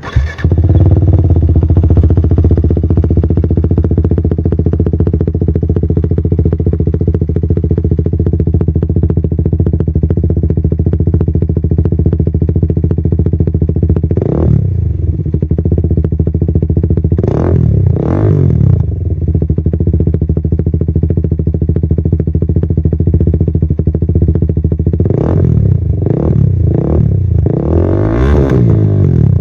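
KTM 390 Duke's single-cylinder engine breathing through an FMF Apex aftermarket exhaust, idling steadily. The rider blips the throttle once about halfway through, twice a few seconds later, then three quick blips and a bigger rev near the end.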